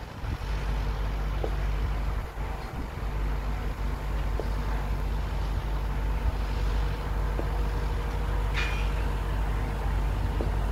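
Steady low rumble of an approaching Rajdhani Express train heard from a distance, mixed with wind on the microphone.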